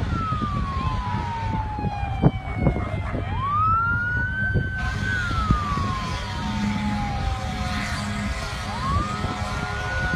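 Emergency vehicle siren on a slow wail: the tone rises, holds high, then falls slowly over about four seconds before rising again near the end. A steady low rumble runs underneath, with a few sharp knocks about two to three seconds in.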